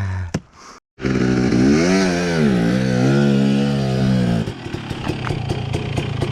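Dirt bike engine starting suddenly about a second in, its pitch rising and falling as it revs. Near the end it settles into steadier, lower running.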